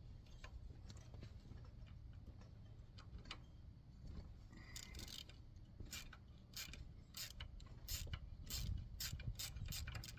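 Hand tools working on the tiller, giving sharp metallic clicks: a few scattered ones at first, then a quicker run of about two to three a second through the second half.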